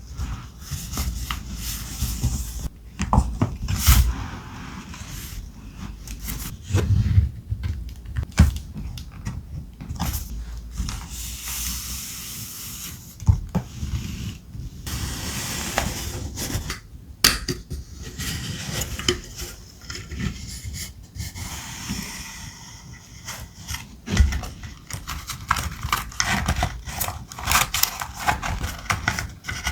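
Thick paper being handled for journal decorating: rustling, sliding and rubbing against paper and the desk, with scattered light taps and clicks.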